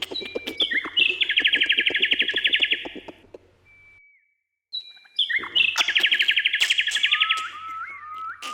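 Songbirds singing: a fast, even trill delivered twice, with a brief dead-silent gap between, over scattered short chirps, and a run of quick upslurred whistles near the end.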